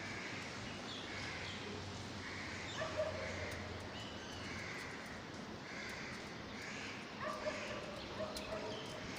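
Baby parrots making repeated short, rasping begging calls, roughly one or two a second, with a few brief higher, thinner cries mixed in about three seconds in and near the end.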